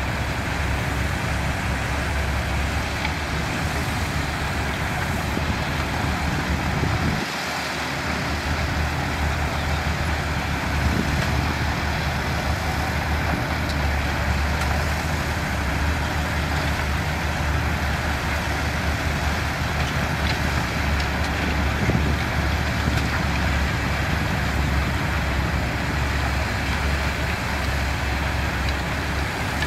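Diesel engines of heavy construction machinery, bulldozers and dump trucks, running steadily with a deep hum. The low hum drops out briefly about seven seconds in.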